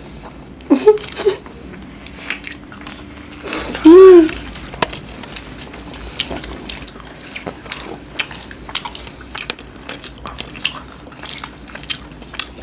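People eating a meal: scattered soft clicks and smacks of chewing and of food against dishes, with a short voiced hum or exclamation about four seconds in.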